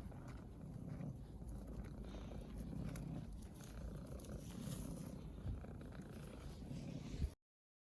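Domestic cat purring, a low rumble that swells and fades with each breath, then cuts off suddenly near the end.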